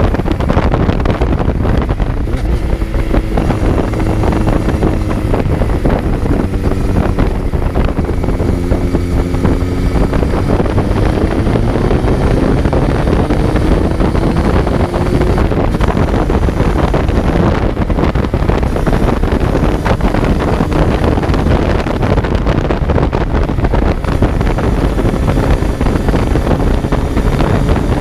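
Kawasaki Z900's inline-four engine running under way, heard on board over heavy wind noise on the microphone. The engine note sags and then climbs again in the first half, then holds fairly steady.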